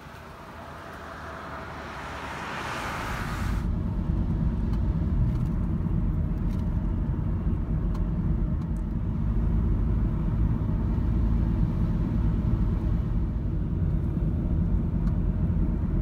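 Nissan NV200 van driving, a steady low rumble of road and engine noise. Over the first few seconds a hiss swells up, then cuts off abruptly.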